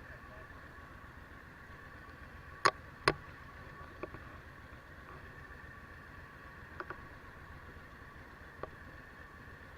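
Suzuki V-Strom DL1000 motorcycle under way, a steady low hum of engine and riding noise. Two sharp clicks come close together about three seconds in, and a few faint ticks follow later.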